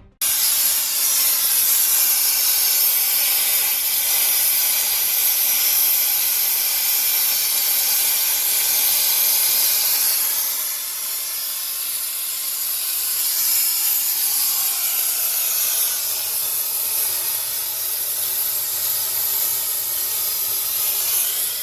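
Plasma cutter gouging out a crack in a steel grader wheel: a loud, steady hiss of the arc and air jet, easing slightly after about ten seconds.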